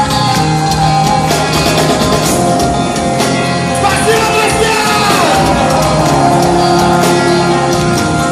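Live rock band playing loud, with guitars, drums and a singer's voice over them.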